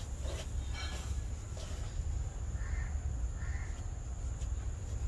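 Two short bird calls about a second apart, over a steady low rumble.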